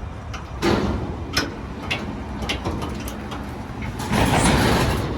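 A pickup truck's engine running low under a series of sharp clicks and knocks, with a louder rushing swell about four seconds in.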